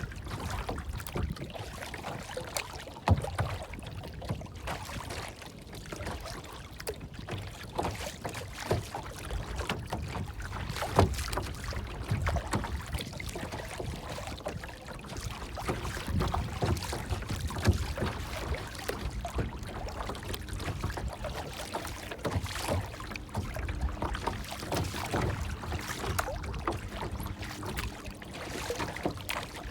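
Water sloshing and lapping, with many irregular small splashes over a low rumble.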